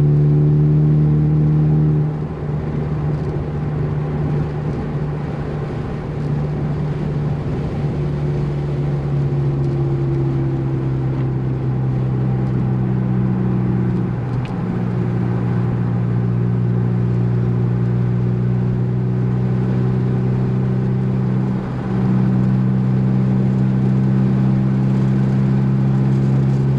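Ford Focus ST engine running at fairly steady revs, its note dropping a couple of seconds in and briefly shifting twice more later as the throttle or gear changes.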